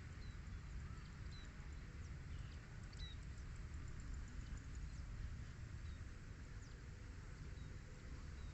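Small birds chirping faintly in short, scattered high notes over a steady low rumble.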